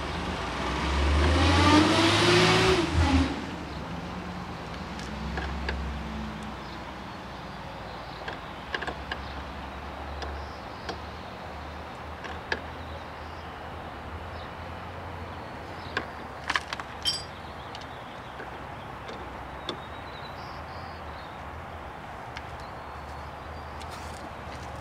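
Model-airplane OS .46AX nitro glow engine briefly firing and running up, its pitch rising and then falling before it cuts off abruptly about three seconds in, a failed start. Afterwards a low steady hum with scattered light clicks.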